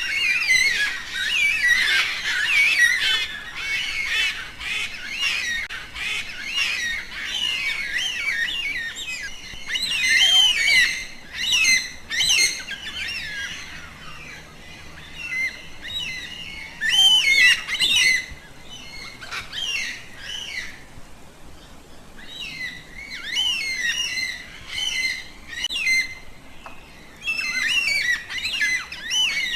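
A flock of birds calling: many short overlapping chirps and squawks, thinning out around the middle and picking up again near the end.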